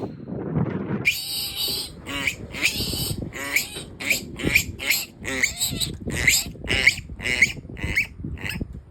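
Newborn wild hog piglets squealing shrilly, a long run of short rising squeals at roughly two a second.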